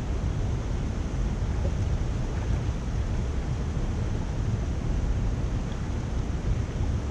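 Steady rushing of water draining through a cleared culvert.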